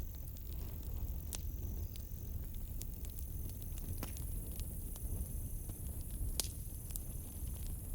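Campfire crackling with scattered sharp pops of burning wood, the loudest about a second and a half in and near the end, over a low rumble. A cricket trills at a high, steady pitch in repeated bursts of about a second and a half.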